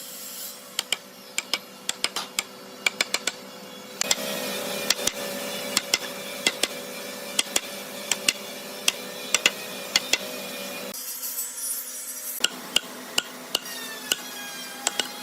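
Irregular sharp taps and knocks of hand tools working wood, over a steady hum. The background changes abruptly at about four seconds and again near eleven seconds.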